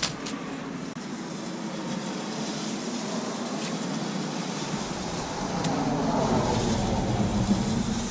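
A vehicle passing, a steady rushing noise that slowly swells, is loudest near the end and then fades, after a sharp click at the start.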